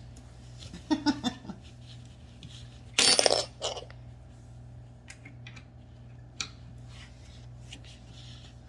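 Small metal hardware clinking and rattling, with one loud brief rattle about three seconds in and scattered light clicks after it.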